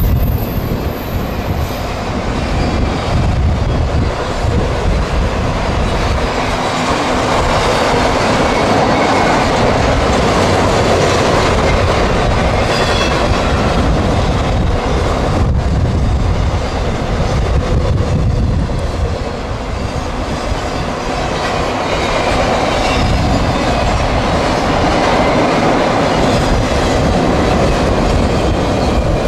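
CSX I010 intermodal freight train rolling past close by: steady loud wheel-on-rail noise from the passing cars.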